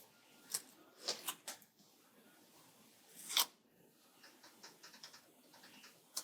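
Paper stickers being peeled from their sheet and handled: a few short rustles and rips, the loudest about three and a half seconds in, then faint light taps and rustles.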